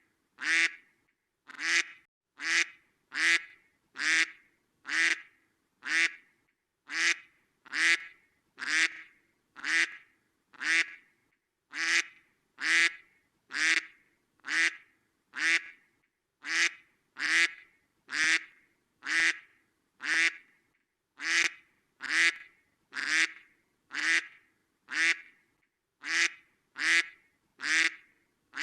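Duck quacking: the same short quack repeated over and over in an even rhythm, a little more than one a second, with silence between calls.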